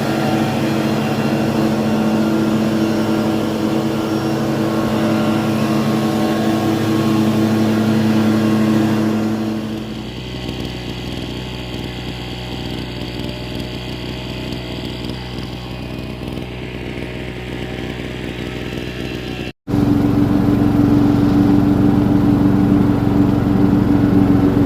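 Small petrol engine of a garden power tool running steadily, the sound changing about 10 seconds in and cutting sharply to a louder, higher-pitched run near the end.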